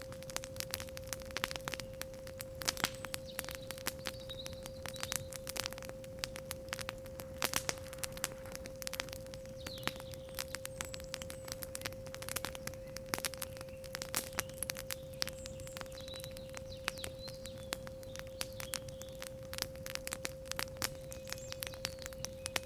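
Campfire crackling and popping in irregular clicks, over a steady 528 Hz sine tone. Faint bird chirps come in now and then.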